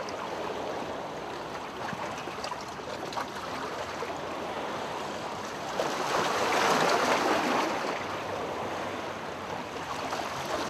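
Water rushing and splashing along the hulls of a sailing Tornado catamaran, with wind. It swells louder about six seconds in, then eases back.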